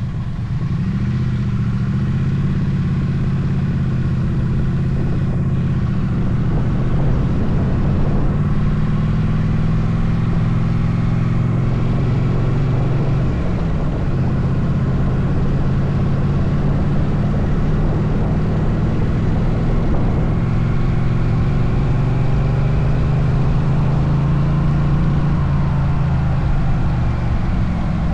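Motorcycle engine running steadily while riding, its pitch dipping about halfway through and rising and falling again near the end.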